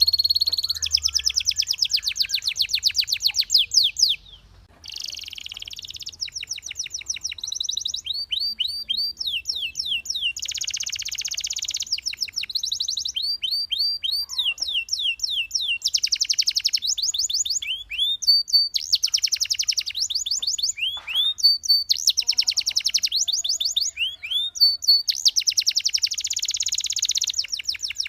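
Belgian canary singing: fast rolling trills of repeated high notes and quick falling sweeps, in phrases broken by short pauses, with a brief break about four seconds in.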